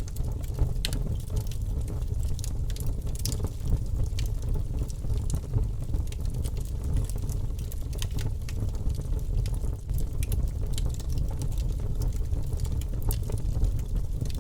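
Wood fire burning in a fireplace, crackling with frequent small irregular pops over a steady low rumble of the flames.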